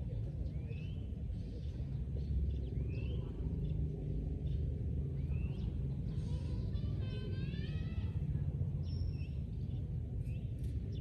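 Steady low wind noise on the microphone, with birds calling over it: several short rising chirps, and a longer run of stacked call notes about seven seconds in.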